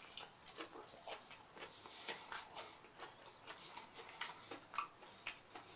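Chewing an extra-crispy hard-shell mini beef taco close to the microphone: a string of faint, short crunches at an uneven pace.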